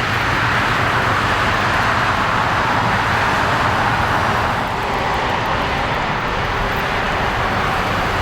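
Jet airliner's engines at takeoff thrust on the departure roll: a loud, steady rush, easing slightly about four and a half seconds in.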